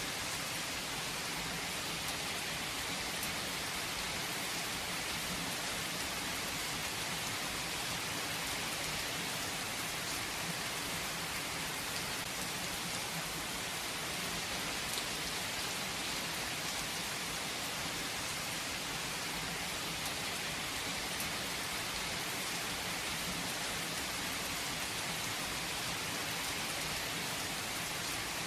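Steady rain falling and pattering on a surface, an even hiss with scattered drop ticks and no change in strength.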